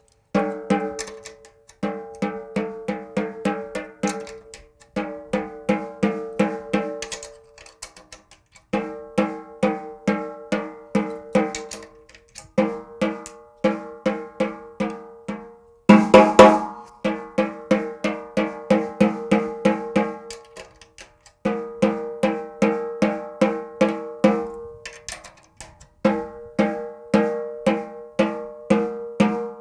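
Snare drum batter head, an Evans UV1 on a 14x6.5 Gretsch Full Range snare, tapped lightly in quick runs of about four strokes a second, with short pauses between runs. It is being tapped next to each lug to check that the pitch is even all around the head while it is tuned. One louder hit comes about halfway through.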